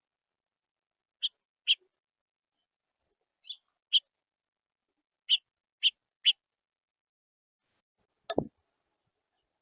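A bird giving short, clipped calls, seven in all: two pairs and then a quick run of three. Near the end comes a single brief knock that drops sharply in pitch.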